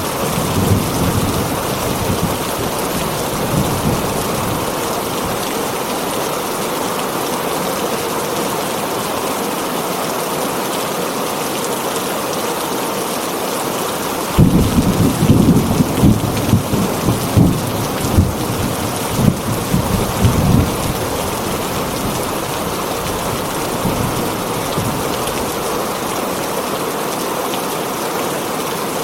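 Heavy rain falling steadily on a tin roof, with a roll of thunder rumbling for about six seconds from around the middle and fainter low rumbles near the start.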